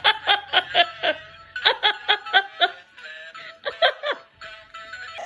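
A person laughing in quick repeated bursts, two runs of rapid ha-ha pulses, with music underneath.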